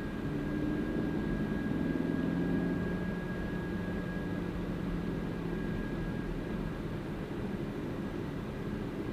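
Car driving at a steady speed: a constant engine hum mixed with road noise.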